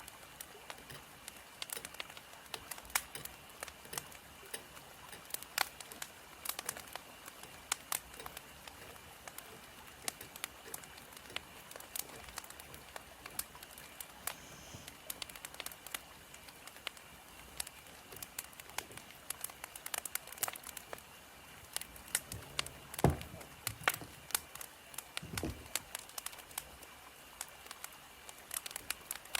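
Burning firewood crackling: a steady run of sharp pops and snaps over a soft hiss, with two heavier pops near the end.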